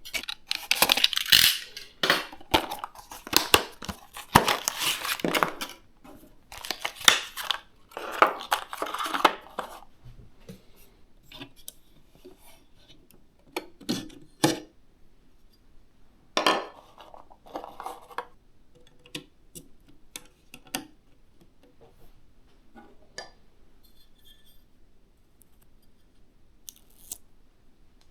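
Hands unpacking and handling computer parts: packaging rustles and tears for about the first ten seconds, followed by scattered light clicks and taps of hard plastic and metal pieces.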